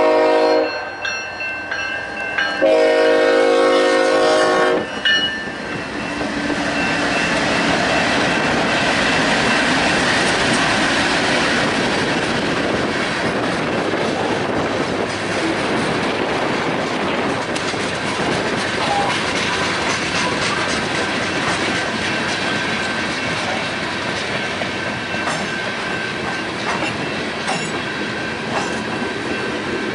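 Freight train horn: one blast ending about a second in, then a second blast of about two seconds. The train then passes with a steady rumble and the clatter of wheels on rail joints.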